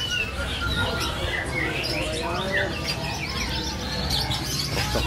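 Many caged songbirds chirping and calling at once, a dense mix of short chirps and quick whistled glides, with faint voices murmuring underneath.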